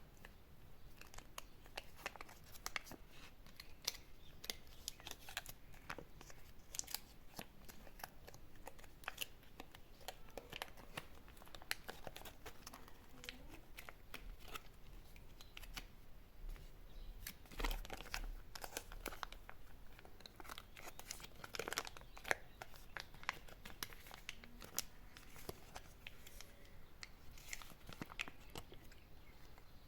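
Candy wrappers being crinkled and torn open by hand: dense, irregular crackling with a few louder bursts of rustling.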